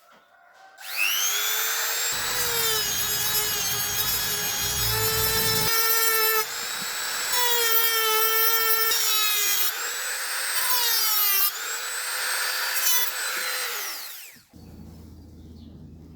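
Small electric drill spinning up to a high-pitched whine, its pitch dipping and recovering several times as it bites into material, then winding down near the end.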